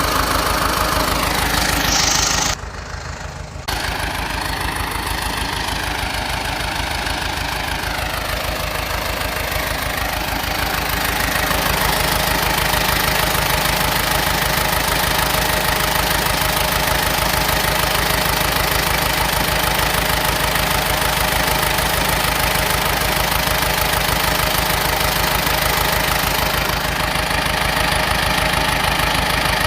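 Crawler bulldozer's diesel engine running steadily, its firing heard as rapid even pulses. The sound drops away briefly about three seconds in.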